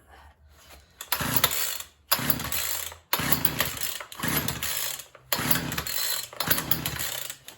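Small Craftsman chainsaw being pull-started: the recoil starter cord is yanked repeatedly, about five pulls roughly a second apart, with the engine turning over but not catching. The saw may be flooded after gas was poured down the carburettor.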